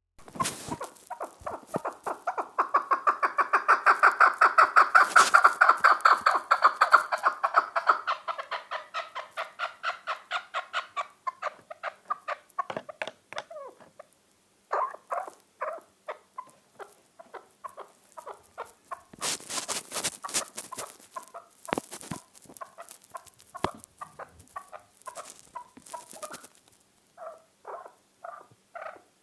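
Chukar partridge calling: a long, rapid series of clucking notes that builds up, peaks and then fades, followed by shorter bouts of clucks. A brief noisy burst comes about two-thirds of the way through.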